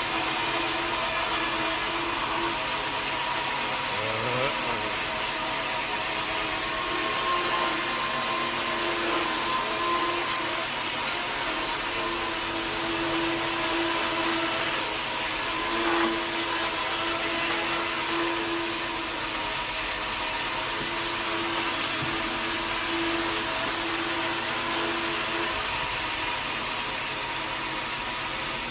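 Sawmill machinery running steadily: a constant mechanical hiss and hum with a few steady tones, such as a big saw at work on a teak log.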